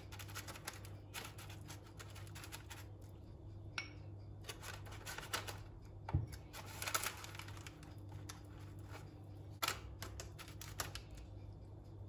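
Kitchen handling sounds: a run of light crisp clicks and scrapes, with a single dull knock about six seconds in, over a steady low hum.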